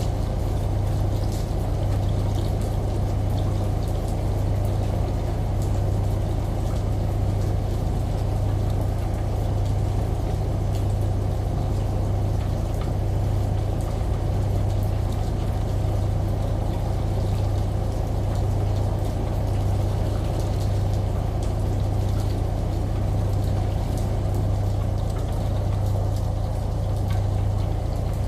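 Layered ambient bed of running shower water and rain over the constant low hum of a washing machine, with scattered faint drip clicks; steady throughout.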